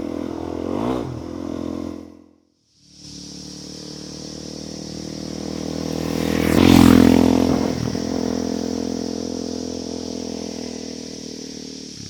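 Suzuki DR-Z400E's single-cylinder four-stroke engine running under way. The sound cuts out for under a second about two seconds in. The engine then builds to its loudest about seven seconds in and eases off again.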